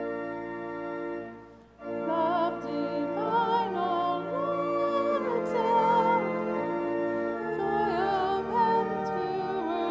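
Church organ holding chords that die away about a second and a half in, then, after a brief pause, the next verse of a hymn begins: a singing voice with strong vibrato over organ accompaniment.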